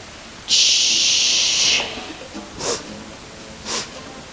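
A person's loud, drawn-out hissing exhale through the teeth lasting over a second, followed by two short, quick breaths.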